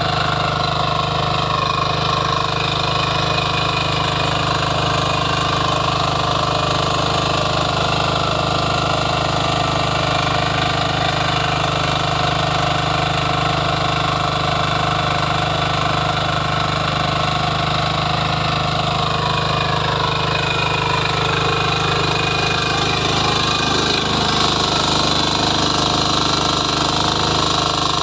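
Power weeder's small engine running steadily at a constant speed.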